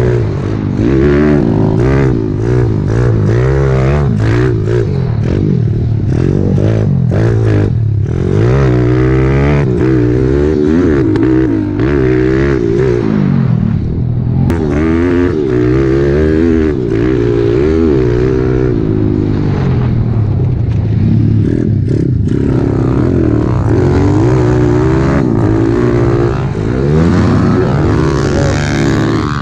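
Small single-cylinder four-stroke pit bike engine running hard, its pitch climbing and dropping again and again as the throttle is worked on and off.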